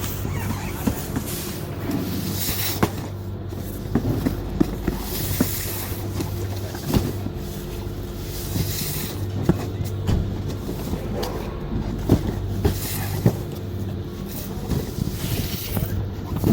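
Cardboard cartons of books being set down and stacked on a pallet, with scattered knocks and thumps every second or so, over a steady low mechanical hum.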